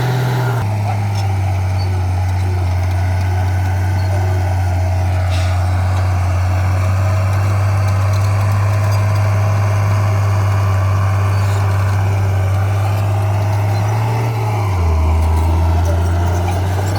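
Heavy diesel engine of earthmoving equipment running with a steady low drone. Near the end its note drops lower for a couple of seconds as the engine speed changes.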